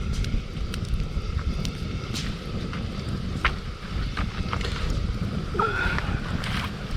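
Wood campfire crackling, with scattered sharp snaps, over a steady low rumble of wind on the microphone. A short pitched call-like sound comes about six seconds in.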